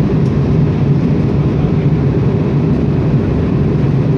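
Steady drone of an airliner's jet engines and airflow heard inside the passenger cabin in flight, a deep, even rumble with no breaks.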